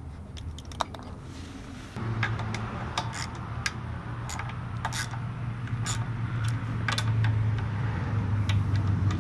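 A motor vehicle's engine running nearby, coming in about two seconds in and slowly growing louder, with scattered light clicks and taps of tools and small parts being handled.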